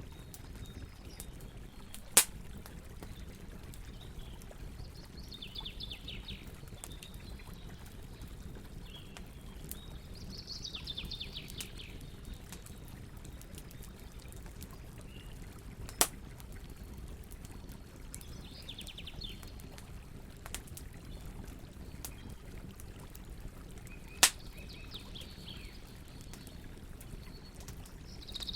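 Campfire burning with a steady low rumble and scattered crackles, three of them sharp loud pops. A short high chirping trill repeats every five or six seconds.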